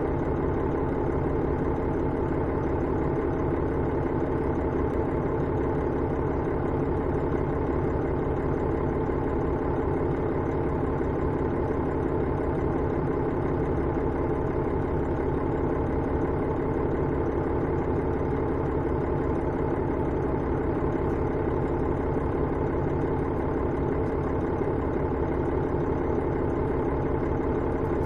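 The diesel engine of a KiHa 110 series railcar (KiHa 112), running steadily at idle and heard from inside the car, with no rise in pitch.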